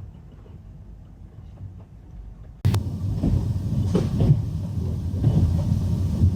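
Moving passenger train: a quiet low rumble, then, about a third of the way in, an abrupt jump to much louder running noise with rattles and knocks from the carriage.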